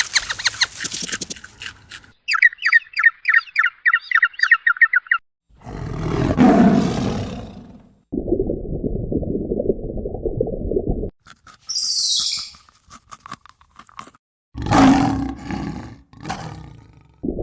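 A string of different animal calls cut one after another. A rapid run of high chirps comes first, then a roar, then low, steady croaking, followed by a brief high call and another short call near the end.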